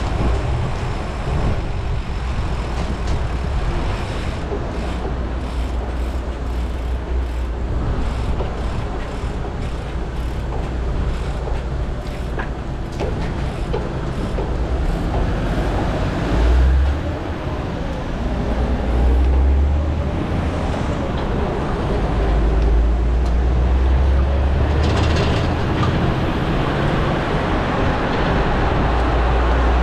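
Steady road-ride noise on a GoPro action camera: low wind rumble on the microphone that swells and fades, mixed with passing road traffic.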